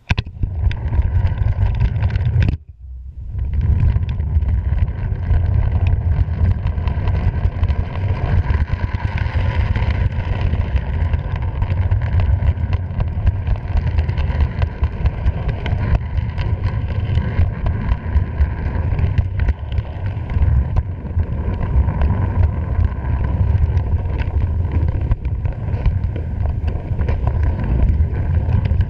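Rumble of a moving freight train heard from on board, with wind buffeting the microphone. It starts suddenly, drops out for a moment about two and a half seconds in, then runs steadily.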